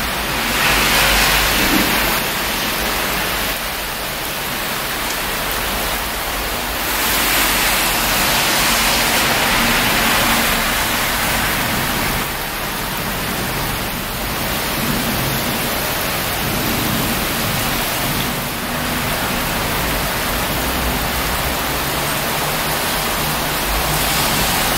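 Heavy rain falling on a city street, a steady hiss that swells and eases every few seconds.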